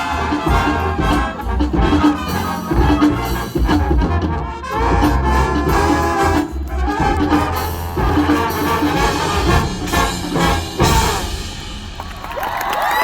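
Marching band playing: brass section of trumpets and trombones over drumline percussion with a steady beat.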